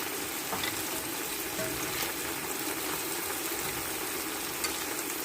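Steady sizzling and bubbling of a pan of squid, prawns and shrimp cooking in a tomato sauce.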